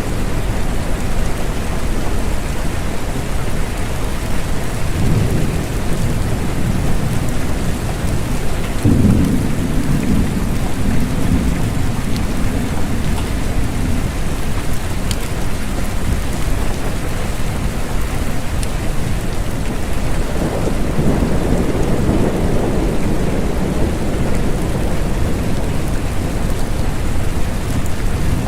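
Steady rain with thunder rolling low three times: once about five seconds in, more strongly about nine seconds in, and again about twenty seconds in.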